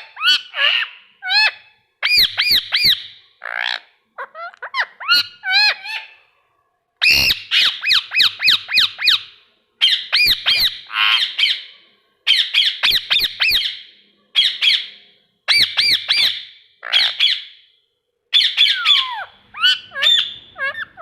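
Ring-necked parakeet screeching in quick runs of repeated, high-pitched squawks, each run lasting a second or two, with short pauses between runs.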